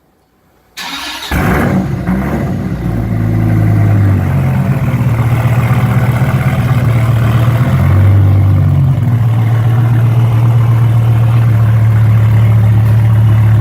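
Cold start of a 2002 Hennessey-modified Dodge Viper's V10: the starter cranks briefly about a second in, the engine catches and flares, then settles into a loud, steady fast idle, with a short change in pitch about two-thirds of the way through.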